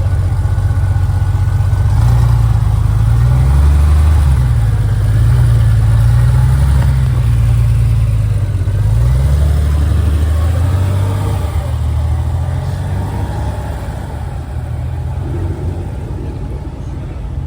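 A car engine running with a low rumble, its pitch rising and falling several times over the first half as it is revved lightly, then settling back toward idle.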